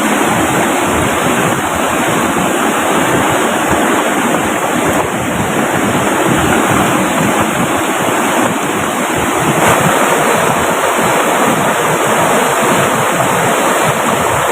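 Heavy rain pouring down beside a rushing river: a steady, loud, even wash of water noise.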